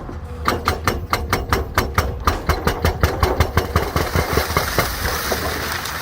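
Excavator-mounted hydraulic breaker hammering rock in a fast, even run of blows, about six a second, over the excavator's diesel engine running. The hammering stops a little before four seconds in and the engine carries on.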